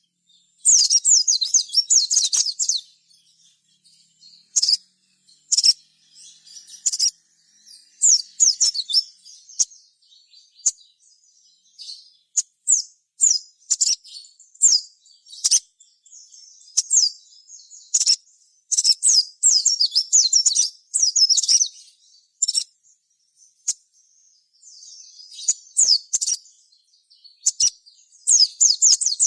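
A sogon (sogok ontong, a sunbird) singing: short, fast phrases of high, thin chirps and twitters, each lasting a second or two, with brief pauses between them.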